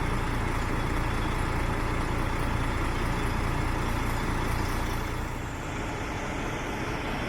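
The DAF CF85's Paccar 460 hp Euro 5 diesel engine running steadily, most likely at idle, with a deep low rumble.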